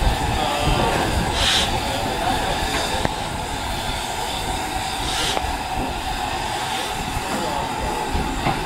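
Railway train running steadily, with two short hisses about one and a half and five seconds in.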